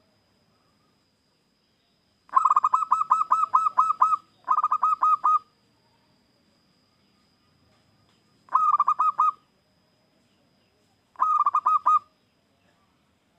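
Zebra dove (perkutut) calling: four bouts of quick, evenly repeated cooing notes, about seven a second, the first two close together and the others a few seconds apart, with pauses of near silence between.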